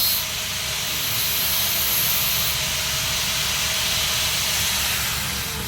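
Steady hissing, crackling welding arc on a 3-inch schedule 80 steel pipe joint, easing off near the end.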